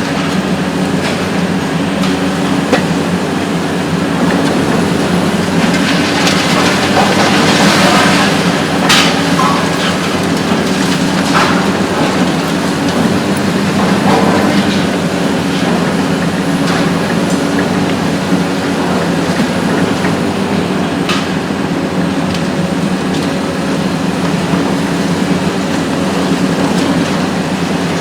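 Hitachi ZX 870-3 XXL long-front demolition excavator's diesel engine running steadily under hydraulic load, with irregular clattering, cracking and crashing of demolition debris, heaviest about a quarter of the way in.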